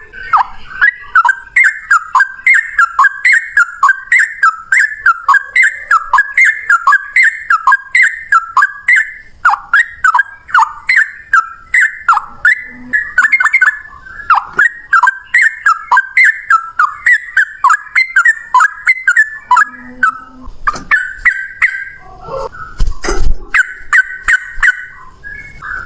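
Sooty-headed bulbul (trucukan) singing a long, fast, unbroken run of repeated sliding notes. Near the end the song changes to different, louder phrases, with a few low thumps.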